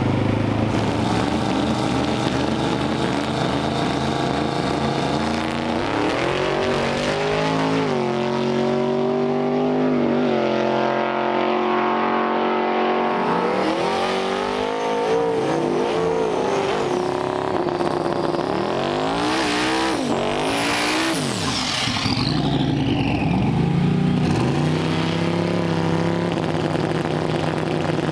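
Drag-race car engines running and revving hard, their pitch climbing and dropping several times over a steady engine drone.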